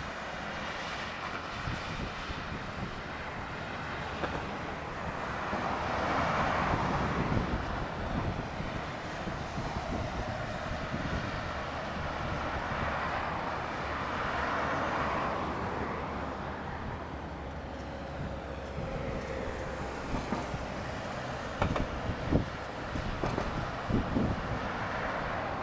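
Distant jet aircraft engine noise: a steady rush that swells and fades twice, with a few sharp knocks near the end.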